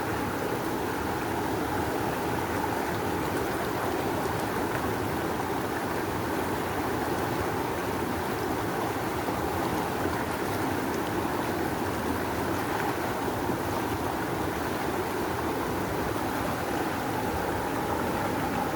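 Rushing river: fast water flowing steadily with an even, unbroken rush.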